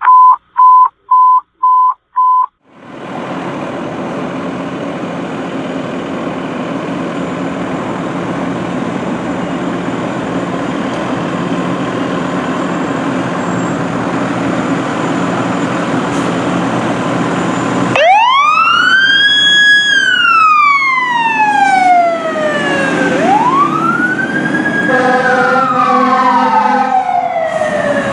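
Five short high beeps, then a fire engine's diesel engine running steadily and slowly growing louder. About eighteen seconds in its siren starts a slow wail, rising, holding and falling, repeating, with another steady tone sounding briefly near the end.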